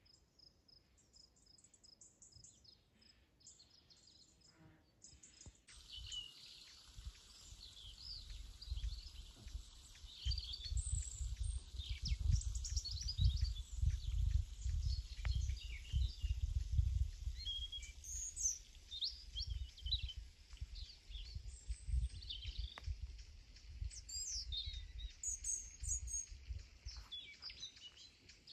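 Wild birds chirping and calling, many short, varied high notes overlapping, with a low rumble underneath. In the first few seconds there is only a faint, rapid, evenly repeated high chirping before the birds start.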